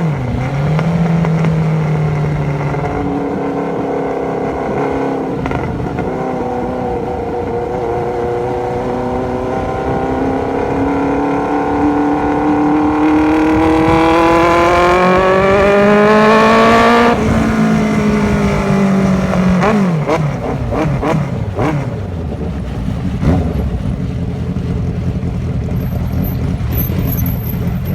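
Honda CB1100F's inline-four engine and exhaust pulling in one long, steady climb in revs. About two-thirds of the way through the throttle is shut sharply and the revs fall away, with a few sharp knocks near the end.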